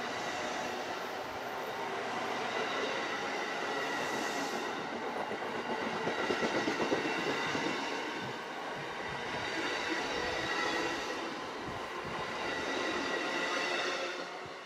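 A train rolling past on the rails, wheels clattering over the track with a steady high-pitched wheel squeal layered over the running noise, loudest about halfway through.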